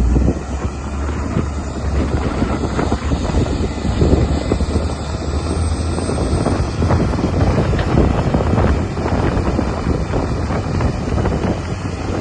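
Caterpillar 938G wheel loader's diesel engine running, a loud continuous low rumble that surges and eases slightly.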